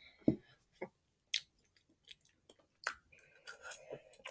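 A person chewing a mouthful of ramen noodles: scattered short, wet mouth clicks and smacks.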